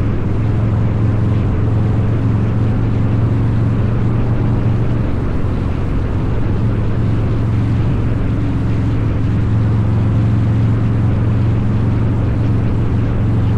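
Harley-Davidson Low Rider's 129 cubic-inch V-twin running through a Two Brothers Racing exhaust while riding, held at a steady engine speed.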